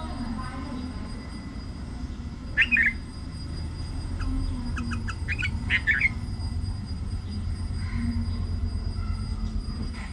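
Short, sharp bird calls: one at about two and a half seconds in, then a quick run of several more about halfway through, over a steady low rumble.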